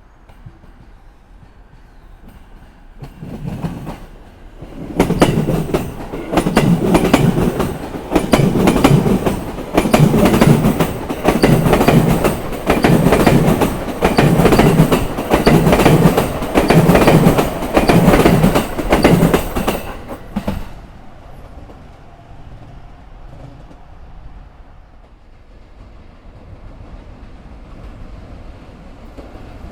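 Commuter electric train passing over rail joints, its wheels striking each joint in a loud repeating clack of about one beat a second. The sound builds about three seconds in and cuts off after about twenty seconds as the last car clears the joint.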